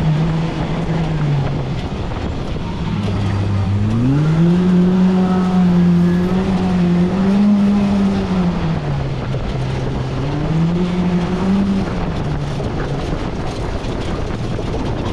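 Polaris RZR Pro R side-by-side's engine running on a trail, revving up and easing off with the throttle. Its note climbs sharply about four seconds in and holds, drops around nine seconds, then rises and falls again near twelve seconds, over steady rushing wind and tyre noise.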